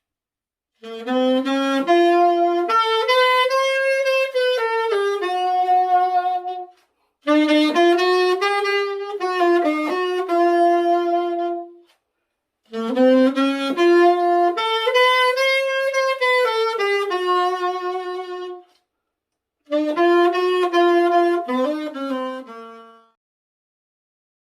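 Saxophone played through a saxophone silencer (mute), a single melody line in four phrases with short breaths between them.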